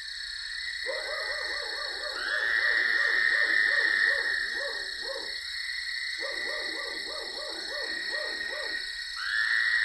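Animated night-time ambience: a steady high ringing drone with two runs of rapid low croaking or hooting calls, about three a second, separated by a short pause.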